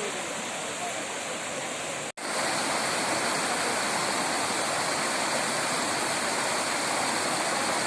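Rushing water of a waterfall, a steady dense hiss. It cuts out for an instant about two seconds in and comes back a little louder.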